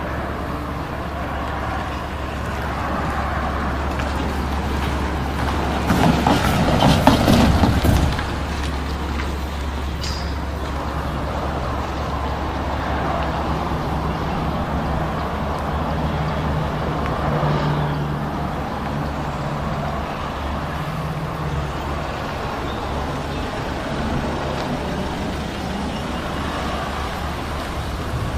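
Diesel locomotive engine running with a steady low drone, a loud noisy burst of a couple of seconds about six seconds in, and a steady humming tone in the middle stretch.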